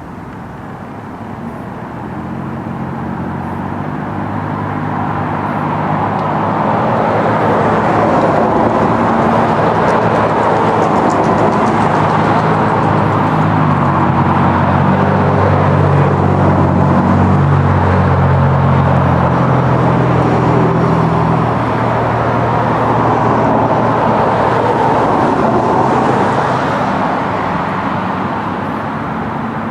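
A motor vehicle's engine passing close: it grows louder over several seconds, holds for a stretch, then fades away.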